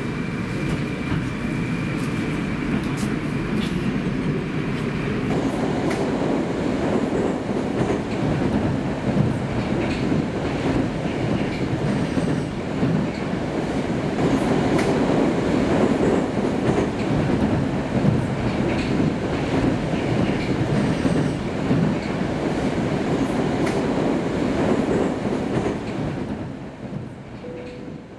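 Steady rumble of a train running on rails, with scattered clicks; it fades out over the last couple of seconds.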